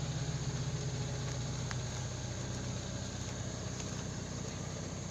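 An engine running steadily at idle, a low, even drone.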